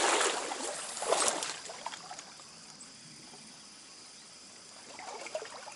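Stream water splashing, loudest at the start and again about a second in, then settling to a steady low rush of running water.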